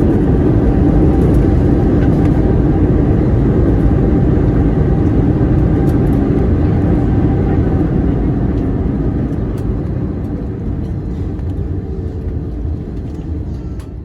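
Loud, steady rumble of an Airbus A321neo heard from the cabin during landing, easing off gradually over the last several seconds as the aircraft slows.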